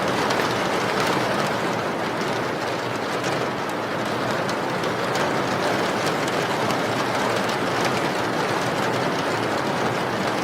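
Steady heavy rain: an even, unbroken hiss with faint scattered drop ticks.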